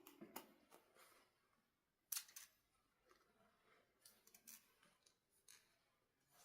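Faint, scattered clicks and light handling noises of small plastic toy parts, with a sharper click about two seconds in.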